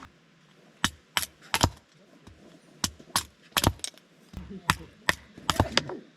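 A series of sharp, irregularly spaced knocks and clacks, about a dozen in all, from hard objects being struck or handled.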